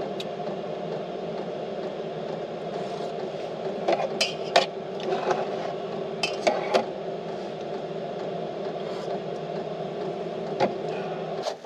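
A few light clinks and knocks of dishes and utensils being handled, over a steady low hum that cuts off near the end.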